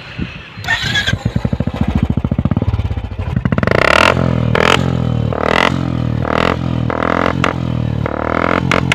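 Royal Enfield Classic 350's single-cylinder engine running through a Red Rooster aftermarket silencer, idling with a fast, even thump for the first few seconds. About three and a half seconds in, it is revved, then blipped repeatedly, roughly once a second.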